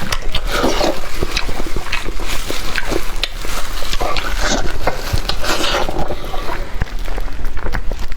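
Close-miked eating sounds of a person chewing spicy sheep head: wet chewing, smacking and sucking with many sharp irregular clicks, going on without a break.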